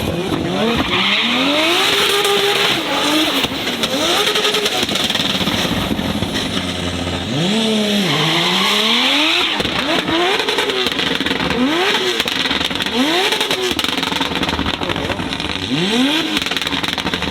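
A performance car's engine revved hard over and over, its pitch climbing and dropping back roughly once a second, with tyre screech in two stretches.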